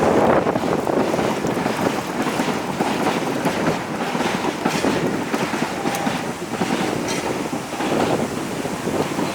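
Wind buffeting the microphone over the steady running noise of a riding narrow gauge steam train, with scattered clicks and rattles.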